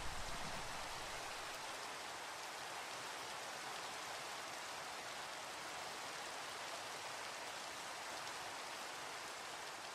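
Steady rain falling, an even hiss, with the tail of a low thunder rumble dying away about a second in.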